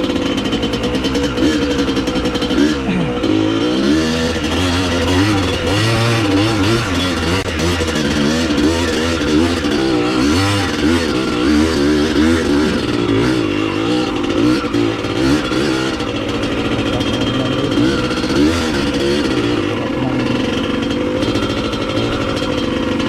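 Dirt bike engine running, its pitch rising and falling continually as the rider works the throttle along the trail, with heavy rain hissing underneath.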